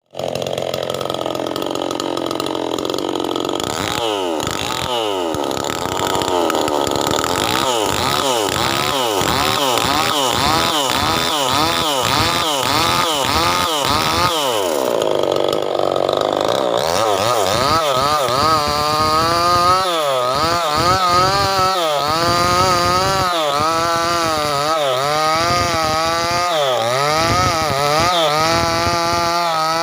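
Small 5800-type chainsaw ripping a Sungkai log lengthwise into boards. The engine pitch dips and recovers over and over as the cut loads it, about twice a second at first and more slowly later.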